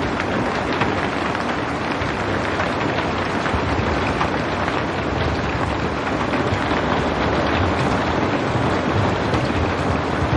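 Steady rain falling, a dense even hiss with many fine drop patters.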